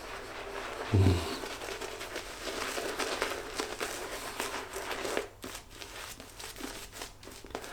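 Simbatec quad-edge safety razor scraping through lathered stubble, a crisp crackling rasp that fades after about five seconds, with a soft bump about a second in.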